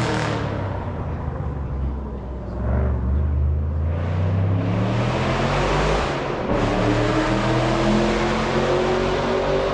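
Race car engine accelerating hard up the hillclimb course, its revs climbing, with a gear change about six and a half seconds in, after which the revs climb again.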